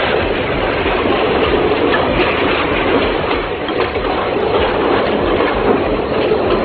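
Passenger train running across a railway viaduct, heard from on board: the steady, loud running noise of the carriage's wheels on the rails.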